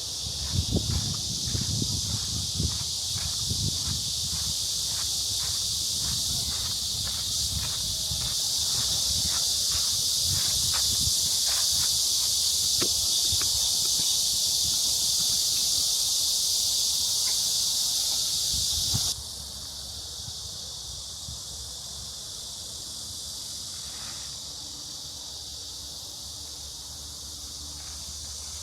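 Chorus of cicadas with a steady high-pitched buzz, and footsteps on a path. About two-thirds of the way in the buzz drops abruptly to a much fainter level.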